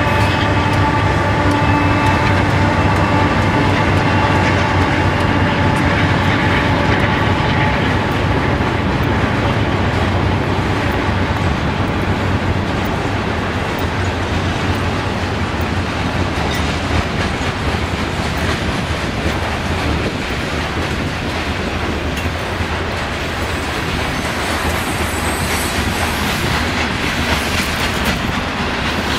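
CSX freight train passing close by: a diesel locomotive's engine hum fades over the first few seconds. After that comes the steady rolling rumble of covered hopper cars, with the clickety-clack of steel wheels over rail joints.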